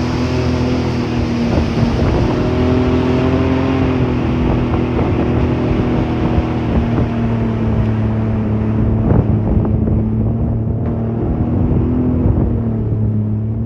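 Boat engine running steadily, its pitch drifting slightly up and down, under a rushing hiss that fades out past the middle. A few light knocks come near the middle.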